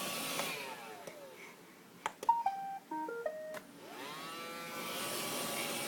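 Vacuum cleaner motor winding down after being switched off. About two seconds in come a few clicks and a quick run of beeps at changing pitches. The motor then spins back up to a steady run.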